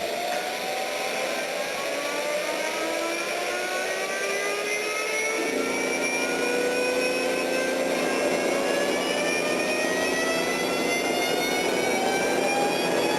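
Jet engine spooling up during start: a whine of several tones that climbs steadily in pitch, with a steady lower hum coming in about five seconds in.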